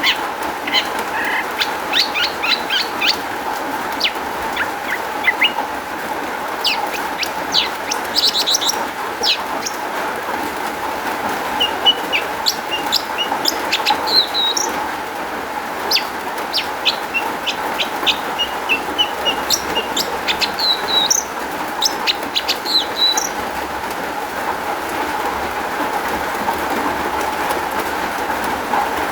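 Long-tailed shrike (cendet) singing a busy run of short sharp chips, chattering notes and brief whistled phrases, its varied mimicked 'isian', over a steady hiss.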